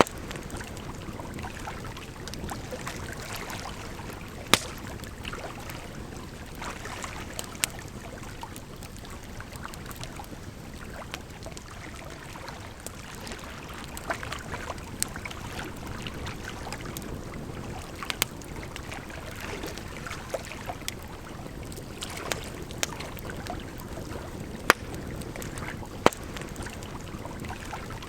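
Campfire crackling, with a sharp pop every few seconds, over a steady rush of flowing water.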